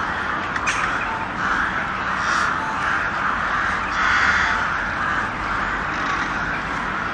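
Crows cawing: a long series of harsh caws, roughly one a second.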